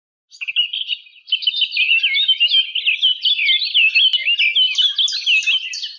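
Small birds chirping and twittering in a rapid, unbroken stream of short high notes, starting just after the start and growing louder about a second in.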